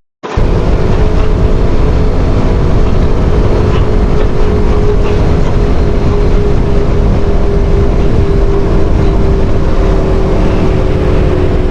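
CFMoto CForce 850 XC Touring quad bike cruising at a steady speed: an even engine drone under heavy wind rumble on the microphone. The sound cuts out for a split second right at the start.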